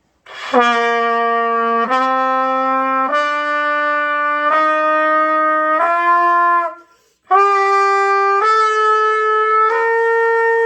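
A beginner's trumpet playing a slow ascending major scale, do to high do: eight held notes, each about a second or more long, each step a little higher, with a short break after the fifth note. The last note runs on past the end.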